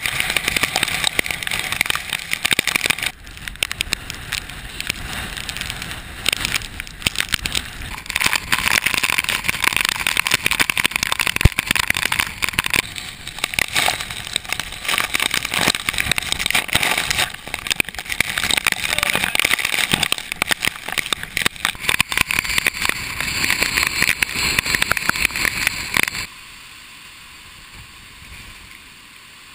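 Hurricane Isaac's wind gusting hard and buffeting the microphone as a loud, choppy rushing noise. It drops to a quieter steady hiss about 26 seconds in.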